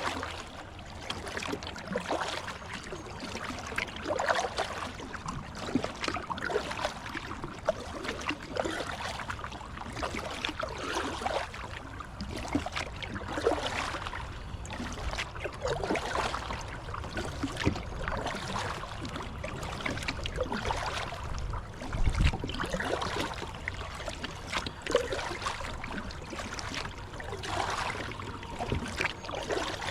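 Kayak paddle dipping and splashing in river water, with irregular strokes every second or two and water trickling around the hull.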